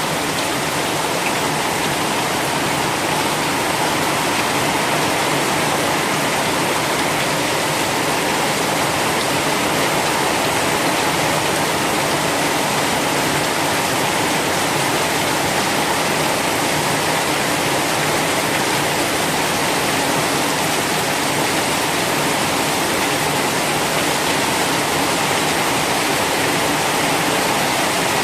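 Heavy rain falling steadily: a dense, unbroken hiss of rainfall with no letup.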